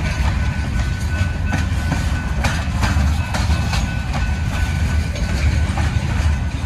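Train rolling past, a steady low rumble with irregular clicks of wheels over the rail joints and a thin steady high whine.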